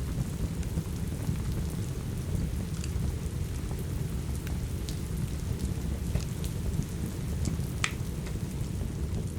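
Steady rain with a deep, continuous rumble, over a crackling wood fire: scattered sharp pops and snaps, one louder pop near the end.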